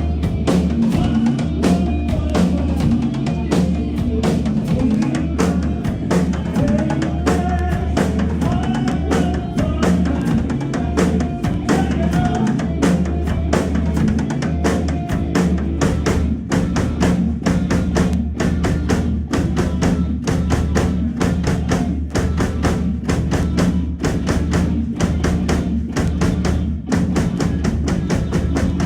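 A live band playing an instrumental passage: a drum kit keeps a busy, driving beat of bass drum and snare over a heavy bass line, with electric guitar lines.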